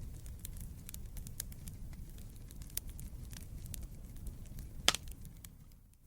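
Wood fire burning in a fireplace: a steady low rumble of flames with irregular crackles and snaps, and one sharp, loud pop about five seconds in. The sound fades out just before the end.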